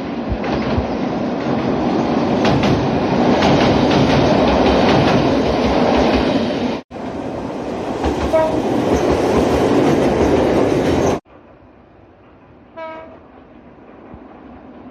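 Nagano Electric Railway local train running, with loud rumble and wheel noise that cuts off abruptly twice as recordings are spliced together. A short horn toot sounds, faintly about eight seconds in and more clearly about a second and a half after the noise drops away.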